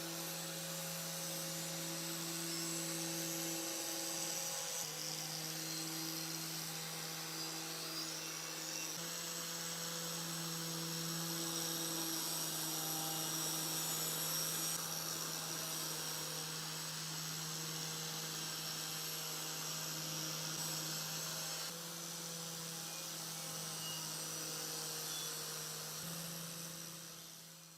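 Small electric power tool running steadily, its motor giving a constant pitched hum with a high hiss over it, with a few brief dips before it fades out at the end.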